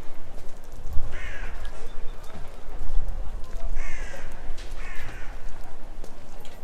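A bird cawing three times, short harsh calls a few seconds apart, over low outdoor rumble.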